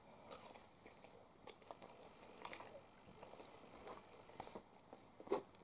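Faint chewing of a boiled potato eaten in its skin, with scattered small mouth clicks.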